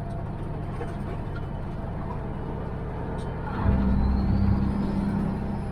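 Heavy diesel truck engine running steadily, heard from inside the cab. About three and a half seconds in, the engine note swells loudly for a second or two, and a thin turbo whistle rises over it.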